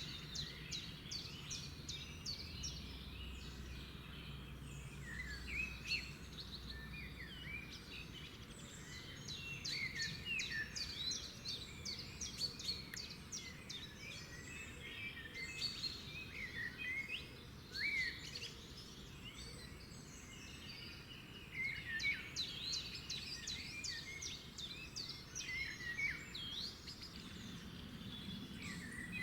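Songbirds chirping and singing, many short whistled notes and quick trills overlapping throughout, over a faint steady low rumble of background ambience.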